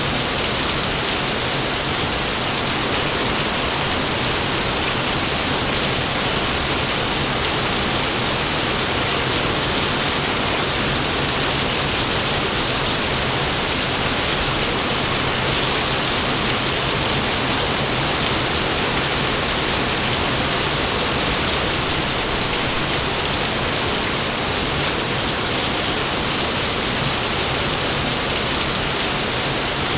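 Heavy rain falling steadily: a dense, even hiss that keeps the same level throughout.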